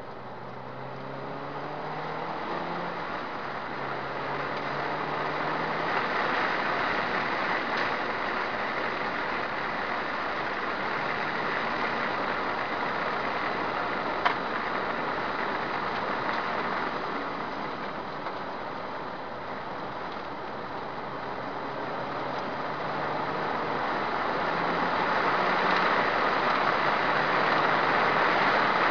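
Subaru Impreza S204's turbocharged flat-four engine accelerating at track speed, its pitch climbing in the first few seconds, under heavy wind and road noise. The noise eases for a few seconds past the middle, then builds to its loudest near the end, with a single sharp click about halfway through.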